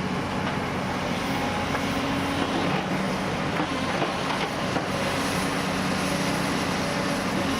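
Heavy demolition machinery's diesel engine running steadily, with a few faint knocks over it.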